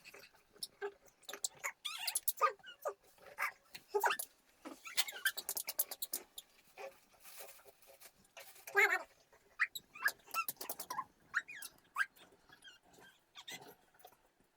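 An animal's short, high calls that bend in pitch, scattered among clicks and rustling.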